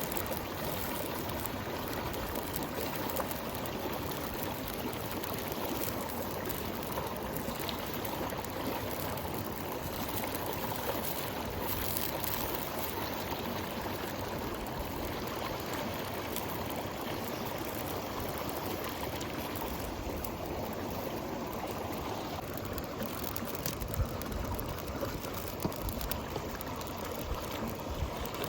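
Steady rush of running water, even and unbroken, with a few light knocks near the end.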